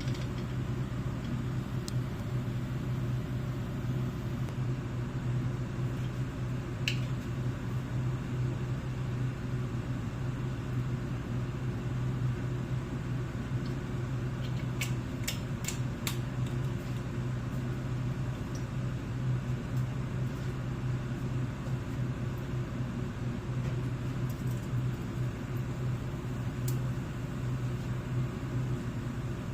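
A steady low mechanical hum, with a few light clicks about halfway through.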